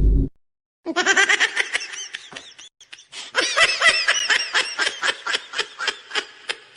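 High-pitched laughter in two rapid bouts of quick repeated ha-ha pulses, with a short pause between them, fading away near the end. Just before it, a loud sound cuts off.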